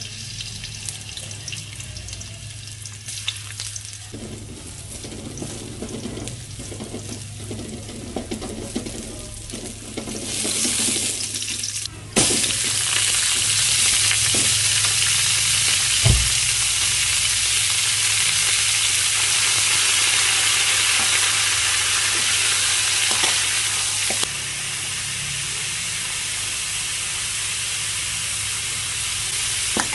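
Chopped ginger sizzling in hot oil in a steel wok, then a sudden, much louder, dense sizzle about twelve seconds in as raw pork pieces go into the wok and are stirred with a metal spatula, with an occasional knock.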